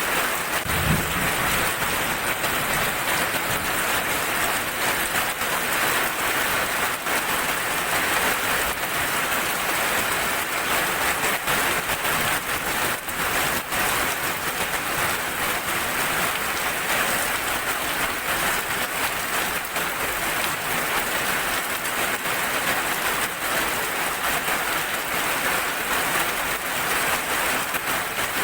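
Heavy rain falling steadily, an even hiss with no letup. About a second in there is a brief low thump.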